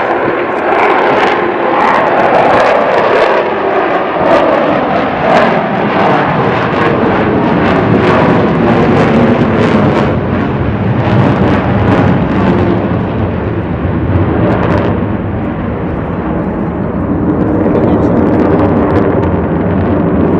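A fixed-wing aircraft flying over, its engine noise loud and continuous and full of crackle.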